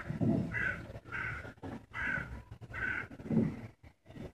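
A bird calling four times in a row: short calls about three-quarters of a second apart, over a low rumble.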